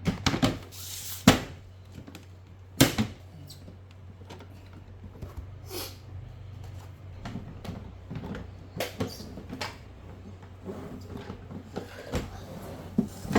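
Scattered clicks and knocks from toy washing-machine and ironing-table pieces and sticker sheets being handled, the loudest about a second in and just under three seconds in, over a low steady hum.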